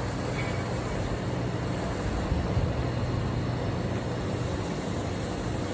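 Steady hiss of a gas torch heating a pipe red-hot, over a constant low mechanical hum.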